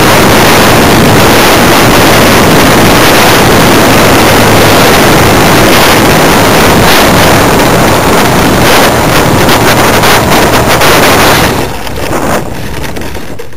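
Loud rushing wind and engine noise picked up by a camera riding on a Funtana S90 radio-control aerobatic plane in flight in high winds. It turns choppy in its last few seconds and drops off sharply about two seconds before the end.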